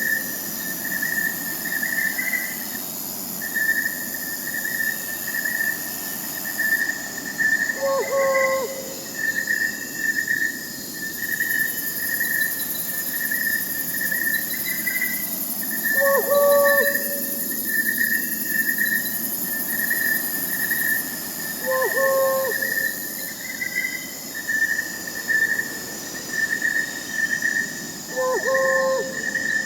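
Crickets chirping in a steady pulsing trill over a high insect hiss. An owl hoots briefly four times, every six to eight seconds.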